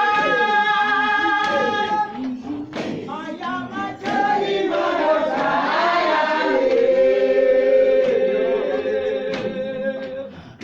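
A group of voices singing together in a church service. They hold a long chord, sing a few shorter, broken phrases, then hold another long note.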